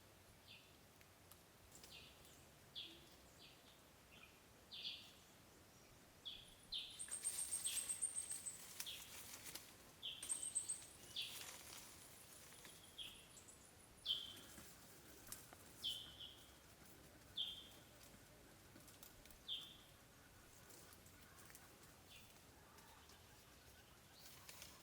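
Faint bird calls: short chirps repeated every second or two, with a higher, rapid trill for a few seconds in the middle.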